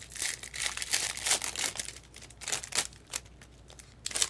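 Plastic trading-card pack wrapper crinkling and tearing as it is handled and opened, in a dense run of crackles over the first two seconds, with shorter bursts later.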